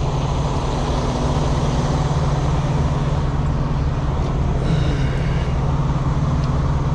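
A truck engine idling steadily, a constant low drone, with a brief high squeak about five seconds in.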